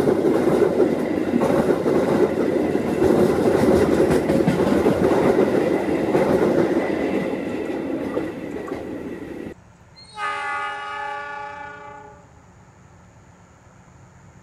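A passenger train running close by on the rails, a loud rumble with wheel clatter that slowly fades. It cuts off abruptly about two-thirds of the way through, and a diesel locomotive's horn then sounds one steady blast of about two seconds.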